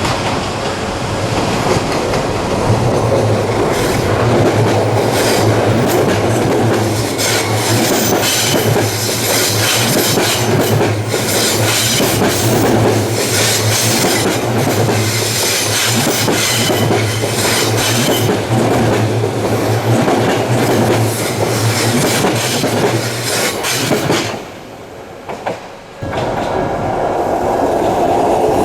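Odakyu Line train passing close by at a level crossing: a loud, continuous rumble of wheels on rail, with repeated clicks as the wheels cross rail joints. The noise drops away briefly about 24 seconds in, then a loud rumble comes back near the end.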